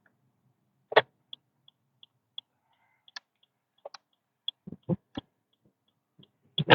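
Sharp clicks and knocks at irregular intervals, loudest near the end, over a faint regular ticking of about three ticks a second.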